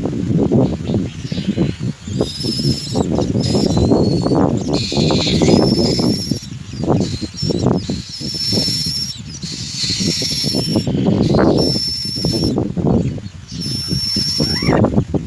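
Hungry common myna chicks giving high, thin, repeated calls, a dozen or so short cries coming in clusters, over near-constant rustling and scuffling in the nest.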